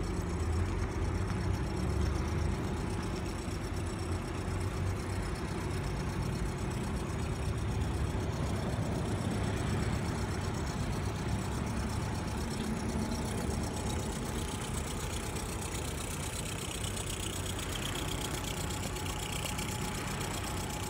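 Nissan Fairlady Z (Z32) twin-turbo VG30DETT V6 idling steadily.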